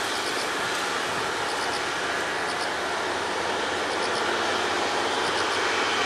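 Jet roar from a Boeing 747-400F freighter's four engines: a loud, steady, rushing rumble.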